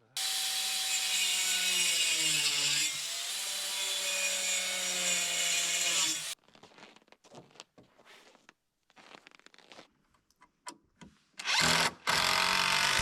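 Power drill driving screws into wood: one long run of about six seconds, with the motor pitch sagging midway as the screw bites, then a short burst and a second run near the end. Light clicks and handling knocks come in between.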